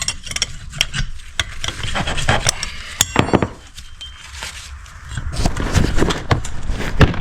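Scattered clicks, light knocks and scraping of metal engine parts and hand tools being handled during engine assembly. The clicks come irregularly, several to a second at times, with a quieter stretch about four seconds in.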